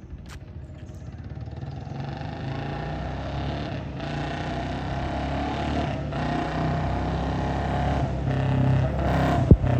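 Royal Enfield Bullet 350 single-cylinder motorcycle running at higher speed through an aftermarket dhol silencer, growing steadily louder as it approaches. The sound dips briefly about four, six and eight seconds in.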